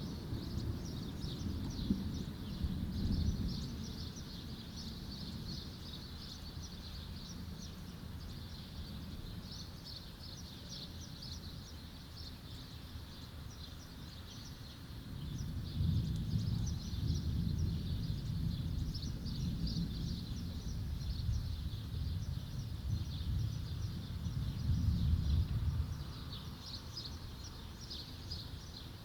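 Low rolling thunder: a rumble fades over the first few seconds, then builds again about halfway through and rolls for about ten seconds before dying away. Small birds chirp steadily throughout.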